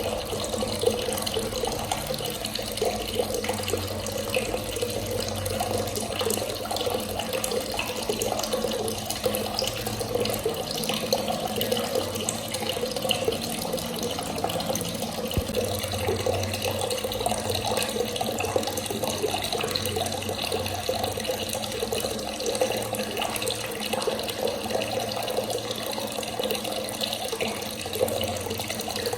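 Water running steadily from a tap and splashing.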